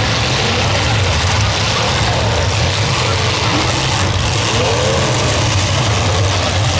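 Several demolition derby cars' engines running together, a loud steady low drone under a rough, noisy hiss.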